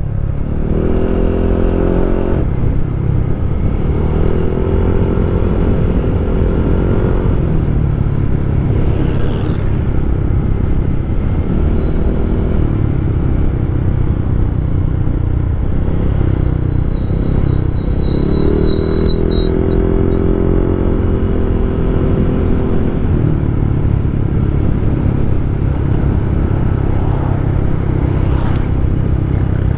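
Yamaha 155 cc scooter engine and exhaust under way, the revs rising and falling several times as it rides, over a steady low rush of wind and road noise.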